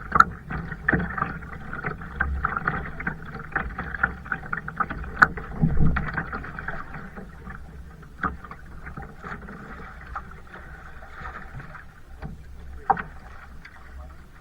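Kayak paddle strokes splashing and dripping in the water, with irregular splashes and a few sharper knocks. The strokes ease off about halfway through.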